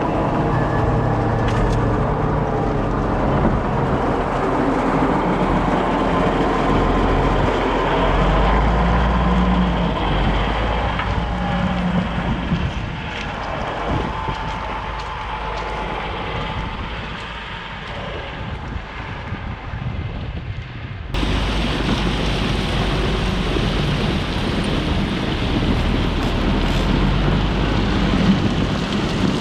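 Heavy machinery engines running steadily. The sound changes abruptly about two-thirds of the way through, as at an edit cut.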